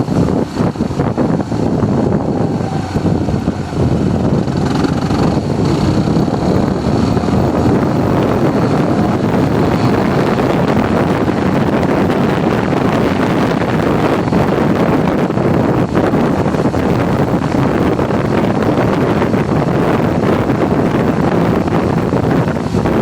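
Wind rushing over the microphone of a moving motorcycle, with its engine running underneath; steady throughout.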